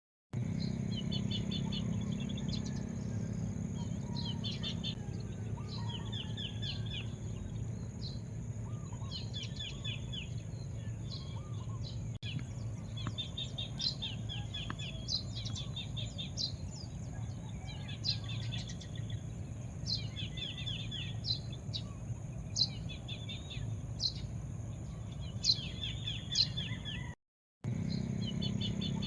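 Birds chirping and singing in short repeated trills and sharp chirps, over a steady high hiss and a low rumble of background noise. The sound drops out for a moment near the end.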